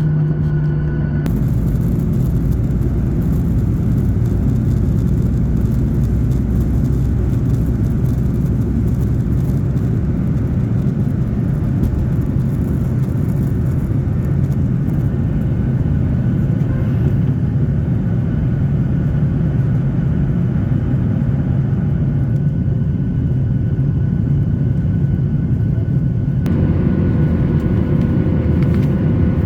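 Steady, loud drone inside a Boeing 737-800 cabin, with low humming tones from the jet's engines and air system. The sound shifts abruptly about a second in and again near the end.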